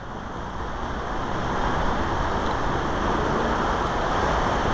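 The Big Thompson River rushing: a steady wash of water noise that grows gradually louder.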